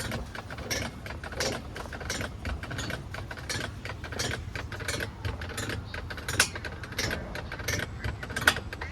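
Mountain coaster cart rumbling along its track, with many sharp rattles and clicks throughout.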